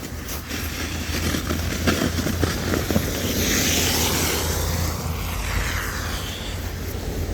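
A snow shovel scraping and knocking on the snowy ground in short strokes for the first few seconds, then a vehicle driving past, its noise swelling and fading away.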